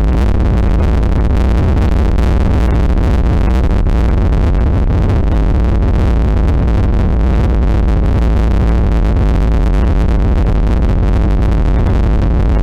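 Loud experimental noise music: a dense, unchanging wall of synthesized noise over a heavy, constant low rumble.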